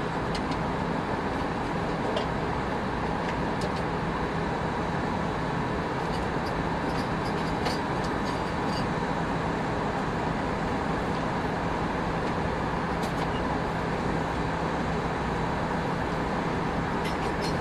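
Steady cabin noise inside an Airbus A319 in flight: an even rush of airflow and engine drone with a low hum, and a few faint ticks scattered through.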